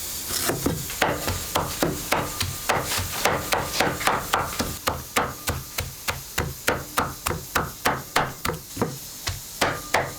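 Rapid, evenly spaced knocks of a hard object striking a hard surface, about three a second.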